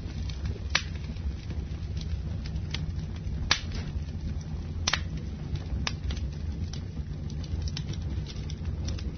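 Campfire burning: a steady low rumble of flames with irregular crackles and sharp pops, the loudest pops about 3.5 and 5 seconds in.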